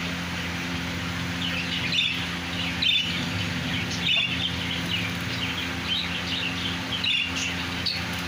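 Many caged birds chirping at once, short high chirps coming thick and fast, over a steady low hum.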